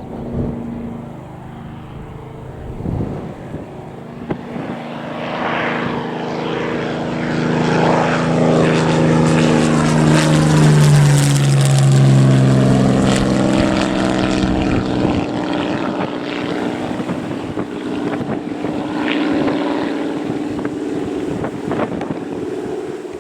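Low-flying aircraft passing by. Its engine note swells to a peak about halfway through and drops in pitch as it goes past, then fades slowly.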